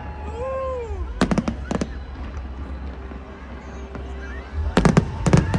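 Fireworks going off: a few sharp bangs about a second in, then a quick cluster of louder bangs near the end.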